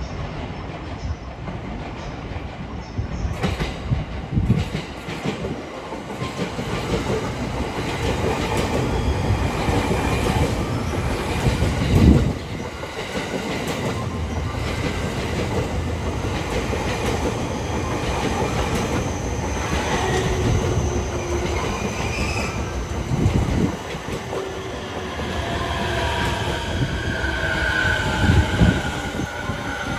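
Electric passenger train running through a station, a steady rumble of steel wheels on the rails with three heavy knocks, about twelve seconds in and again near the end. Its wheels squeal in the last few seconds.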